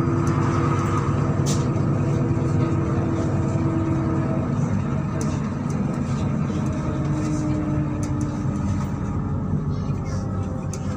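MAZ-103 city bus under way, its diesel engine and drivetrain running steadily. A low hum runs under whining tones that shift in pitch about halfway through.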